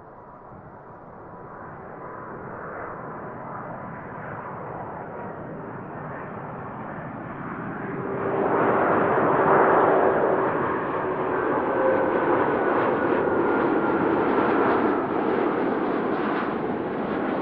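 Jet airliner engines roaring as the aircraft passes close by. The sound builds steadily, surges to its loudest about halfway through and stays loud, with a few steady whining engine tones over the roar.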